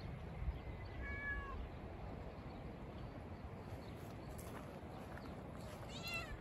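Young goat kids bleating: a short high bleat about a second in and a quavering, wavering one near the end, over a faint low background rumble.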